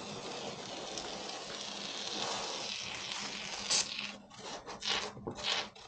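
Scratchy, hissing noise from work on styrofoam insulation boards. It runs steadily for a few seconds, then breaks into several short strokes.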